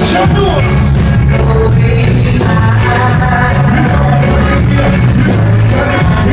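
Live band music played loud, with a heavy bass line, a steady drum beat and some singing.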